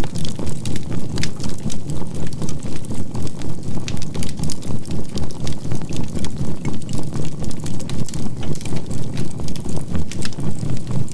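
A low, synthesized binaural-beat tone that pulses evenly about three times a second, with a faint steady 528 Hz tone, over the crackling of burning charcoal in a campfire.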